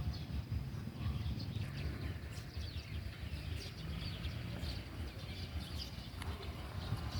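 Birds chirping in many short, high calls over a steady low rumble.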